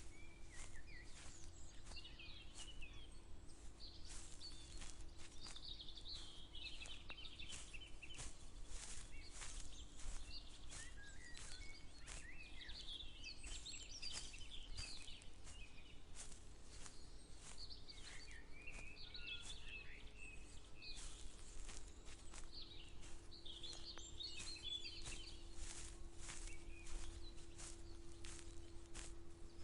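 Songbirds singing in repeated chattering phrases, with footsteps at a steady walking pace and a faint steady hum.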